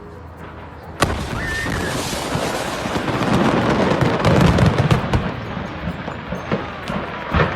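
An explosion: a sudden sharp blast about a second in, followed by several seconds of dense noise with rapid crackling and a low rumble, and another sharp bang near the end.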